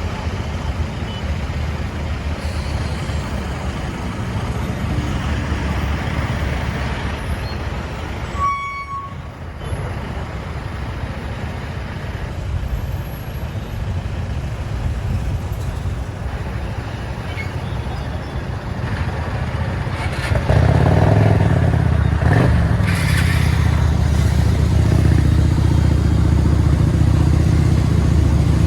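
Motorcycle engine running on a highway ride, with road and traffic noise. A short horn beep sounds about eight seconds in, and the engine gets louder about twenty seconds in.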